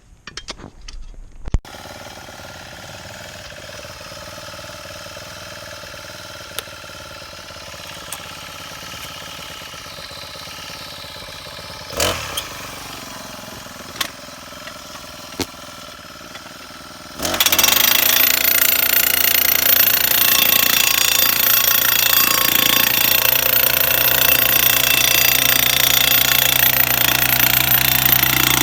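A small engine-driven soil tamper runs at idle, with a few sharp knocks. About 17 seconds in it throttles up suddenly to a loud, steady hammering run for packing the backfill soil.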